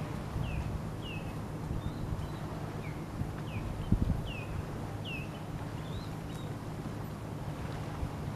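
A bird calling a series of short, high, down-slurred chirps, about two a second, that stop about six seconds in, over a steady low rumble.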